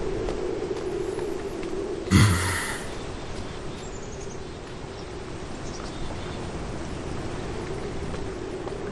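A horse snorts once, a short loud blow about two seconds in, over a steady low hum.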